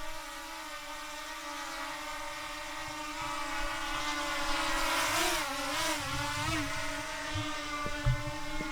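DJI Mini 2 quadcopter drone's propellers whining in a steady hum of several tones, the pitch wobbling up and down for a second or two past the middle, where it is loudest. A few low thumps sound now and then.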